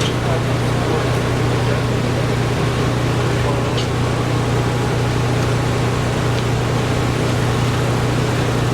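A steady, unchanging low machine hum over an even noise.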